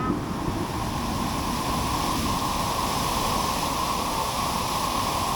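Waterfall's falling water making a steady, dense rushing hiss. It sets in suddenly at the start.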